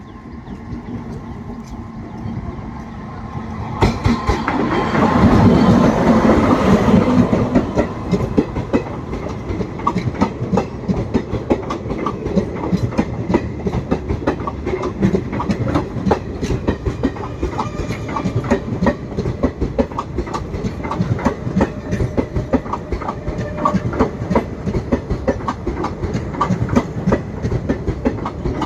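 Train running on the track, its wheels clattering over the rail joints in a fast, steady clickety-clack. The noise builds, is loudest from about four to eight seconds in, then settles into the even clatter.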